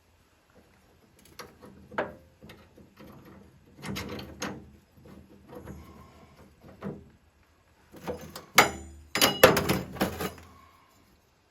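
Irregular clanks and knocks of metal parts and tools being handled, some with a short metallic ring, the loudest cluster about eight to ten seconds in.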